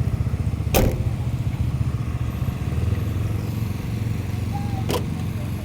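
Vehicle engine idling with a steady low rumble, broken by two sharp knocks, one just under a second in and one near the end.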